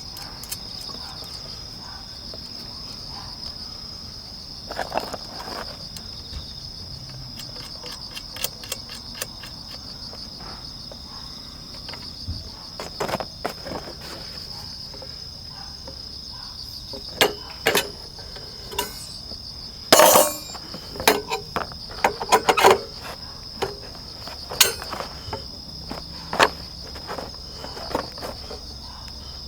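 Crickets chirring steadily and high-pitched, with scattered knocks and clinks of camp gear being handled, loudest and most frequent in the second half.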